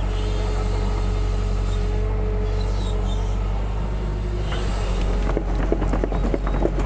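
Excavator's diesel engine running steadily under a held hydraulic whine. About five seconds in, a run of short knocks and clatter starts.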